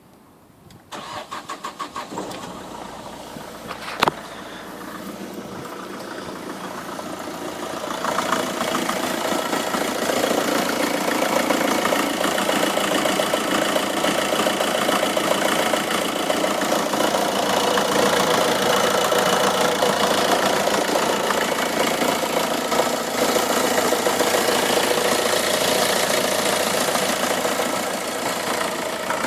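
Vauxhall/Opel Astra H 1.7 CDTI four-cylinder diesel engine started: the starter cranks briefly about a second in and the engine catches, then settles into a steady diesel idle. A sharp click comes near four seconds in, and the engine sounds louder from about eight seconds on.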